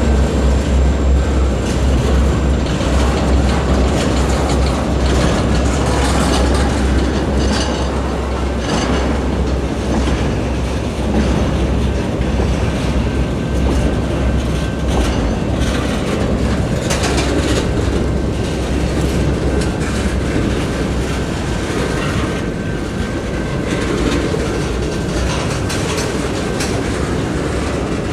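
Norfolk Southern freight train rolling past, its car wheels clicking and clanking over the rail joints. A deep low rumble is strong at first and fades after several seconds.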